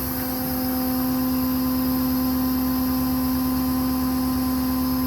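Steady machine whine from a running 6.7 Power Stroke diesel service truck with its hydraulic system engaged, a few even pitched tones held unchanged over a low engine rumble.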